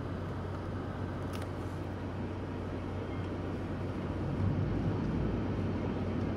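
Vehicle engine running low and steady, heard from inside the cabin while it wades slowly through floodwater, with an even wash of noise over the hum that swells slightly about four and a half seconds in.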